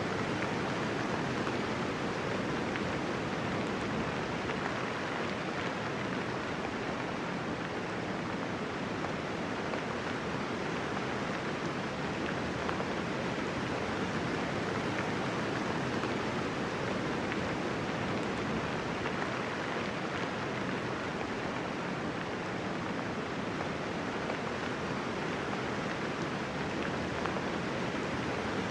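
Soft rain falling steadily, an even hiss with no thunder.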